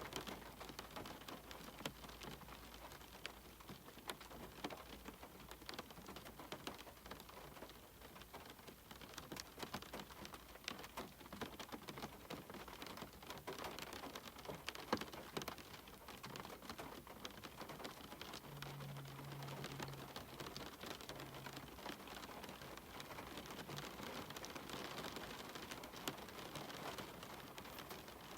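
Steady rain with a dense patter of individual drops ticking.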